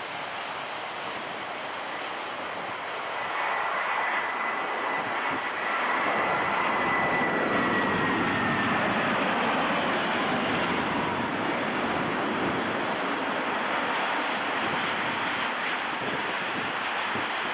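Jet airliner passing, its engine noise swelling about three seconds in and staying loud, with a high turbine whine that slides slightly down in pitch as it goes by.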